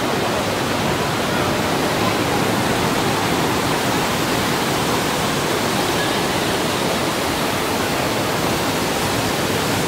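Waterfall, its falling water making a loud steady rush without a break.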